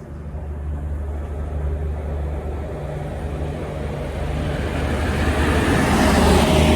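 A train approaching: a steady low hum, with a rumble that grows louder through the second half and peaks near the end.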